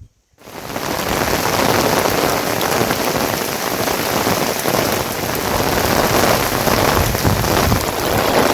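Heavy rain falling: a dense, steady hiss that starts abruptly about half a second in and swells to full loudness within a second.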